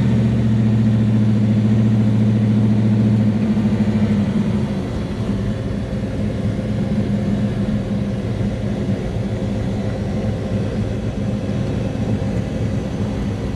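Big-block V8 of a 1967 Chevelle drag car driving, heard from inside the car: a steady, strong engine drone for about the first four seconds, then the engine eases off to a quieter rumble. It runs without stumbling.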